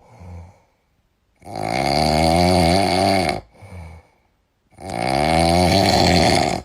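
Loud snoring: two long, rasping snores about three seconds apart, each followed by a short, softer breath out.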